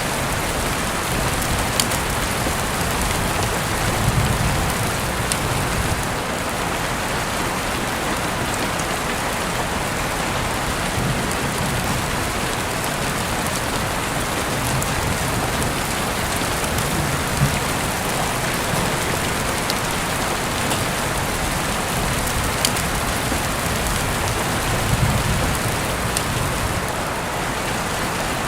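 Heavy rain falling steadily, heard through an open window, with scattered sharp drips and a few brief low rumbles.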